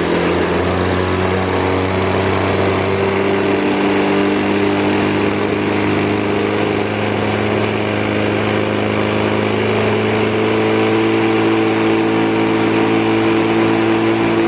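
Motorcycle engine idling steadily after a cold start, running evenly with no abnormal noises.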